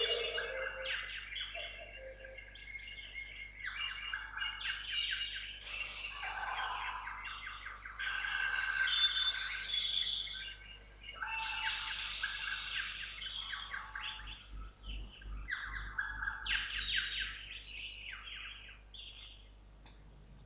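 Several rainforest birds calling and singing at once: overlapping chirps, trills and squawks in phrases of a second or two with short pauses between. The calls thin out near the end.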